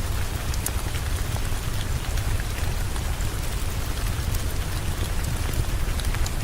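Heavy, steady rain with a deep low rumble underneath and scattered small sharp ticks.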